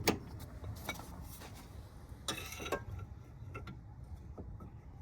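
Irregular light metallic clicks and taps as an inner tie rod removal tool is worked over a car's inner tie rod.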